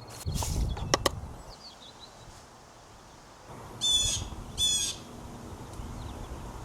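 Two short, harsh bird calls about half a second apart, a few seconds in. Before them comes a low rumble with two sharp clicks about a second in.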